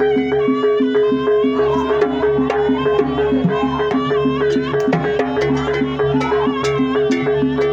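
Jaranan dance accompaniment music. A wavering melody sits above a steady held tone, with evenly pulsing low notes and frequent sharp drum strokes.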